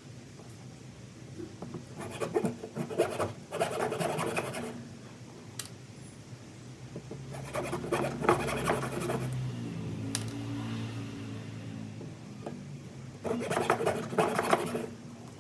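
Wood being worked by hand with an abrasive: three spells of quick rough rubbing strokes, each lasting about two seconds, with a low hum in the middle.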